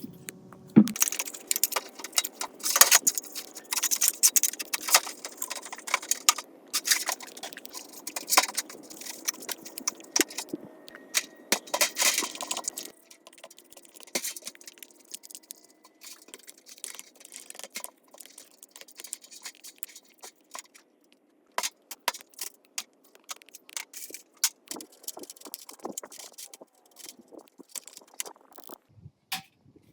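Metal parts and hand tools clinking, rattling and scraping during workshop work, a dense run of sharp clicks that thins out and gets quieter about 13 seconds in.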